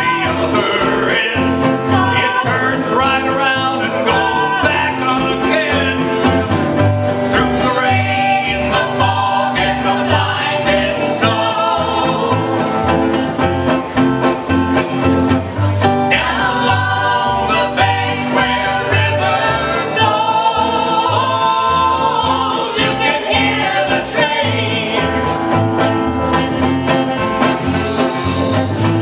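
A live country-style band playing a song with guitar and singing over a steady beat.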